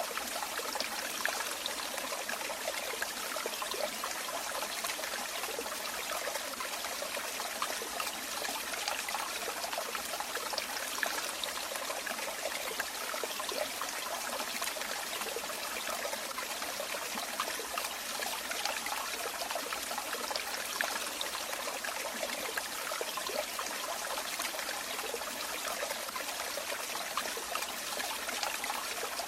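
Running water, a steady trickling flow with fine splashing and bubbling that does not change.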